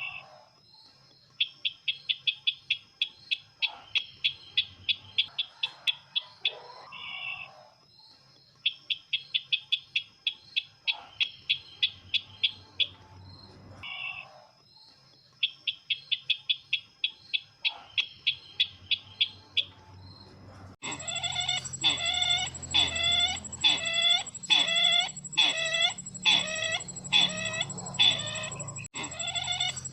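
Recorded call of the sisintar ladang bird, played as a lure: repeated runs of rapid, high chips, about six a second, each run lasting a few seconds with short gaps. About 21 seconds in, it switches abruptly to a louder, denser series of clucking calls.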